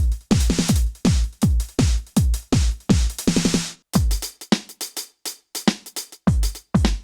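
KAT Percussion KT4 electronic drum kit played through its sound module on an electronic-sounding preset: a steady beat of deep kicks that drop in pitch and snare hits, a cymbal crash a little over three seconds in, then a sparser groove with hi-hat ticks.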